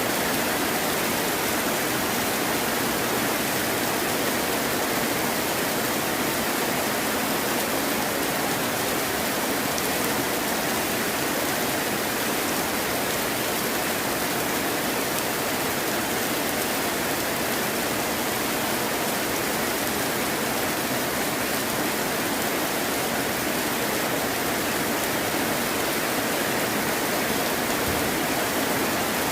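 Heavy rain falling steadily, an even hiss without breaks or thunder.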